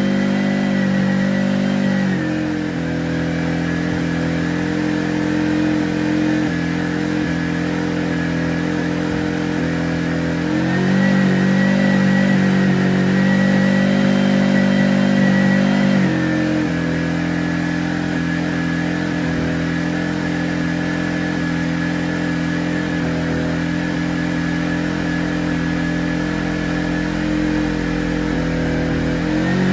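Restored Honda portable generator's engine running steadily, its speed dropping about two seconds in, rising again about ten seconds in, dropping once more a few seconds later and picking up again near the end.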